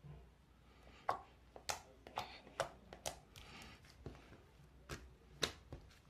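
A series of about ten sharp, irregular taps and clicks, a few with a short hiss after them.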